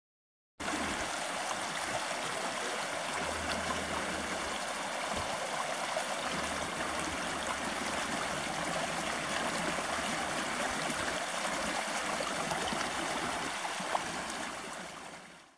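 A small shallow stream running over stones: a steady rush of water that starts suddenly about half a second in and fades out near the end.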